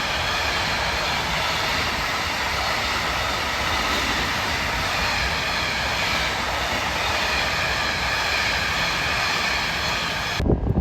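A train passing at speed: a steady rolling rumble and hiss from its wheels on the rails. It cuts off suddenly near the end, leaving wind buffeting the microphone.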